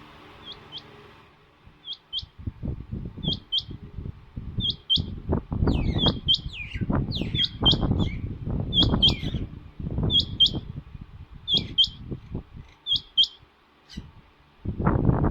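Female rain quail calling in the male-style call: short high double notes, repeated about every second or so. Irregular loud low rustling and knocks run alongside from about two seconds in until near the end.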